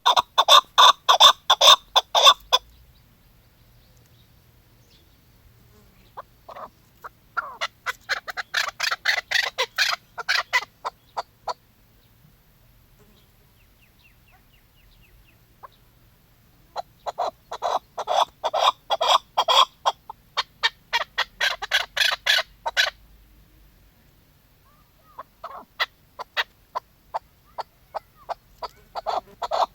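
Female chukar partridge calling: runs of quick repeated notes in four bouts of a few seconds each, separated by pauses.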